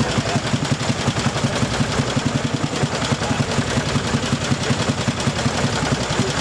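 Vintage motorcycle engine running steadily, with a rapid, even beat of firing pulses.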